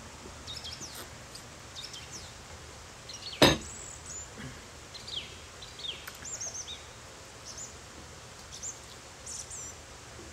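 Small birds chirping and twittering in short, quick high glides throughout, over a steady background hiss. A single sharp click about three and a half seconds in is the loudest sound.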